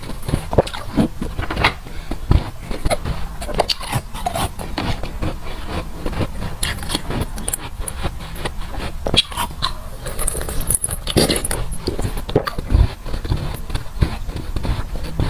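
Close-up crunching and chewing of soft frozen water-bottle ice, a steady run of irregular crisp crunches.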